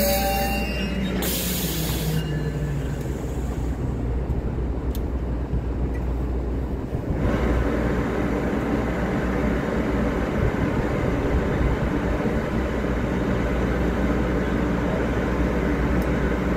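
ACE commuter train standing at the platform with its diesel running, a steady low rumble. A hiss grows louder about seven seconds in.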